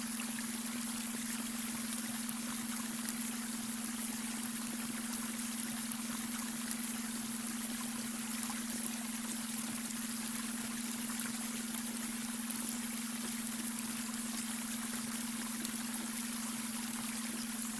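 Babbling brook, water running and trickling steadily over stones, with a steady low hum laid under it: the beta-wave brainwave tone mixed into the soundscape.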